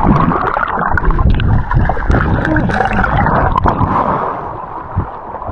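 River water rushing and gurgling close to the microphone, with many small knocks and clicks scattered through it.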